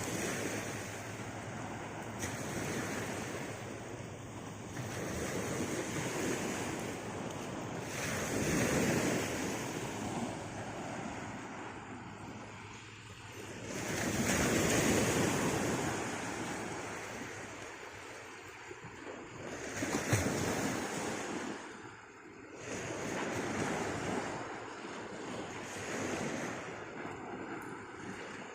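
Sea surf washing onto the beach, swelling and fading in long surges every few seconds, with wind buffeting the microphone.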